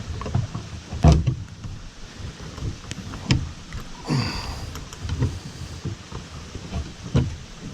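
Hand-tool work on a sticking latch on a generator enclosure: a few sharp metal knocks and a short scraping rattle, over the steady hiss of heavy rain.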